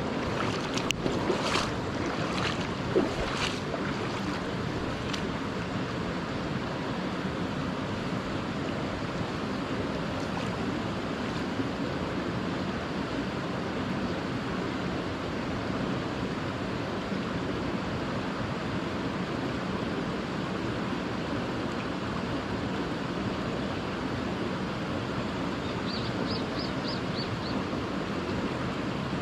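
Steady rush of a mountain stream, with a few sharp clicks and knocks in the first few seconds and a short run of high ticks near the end.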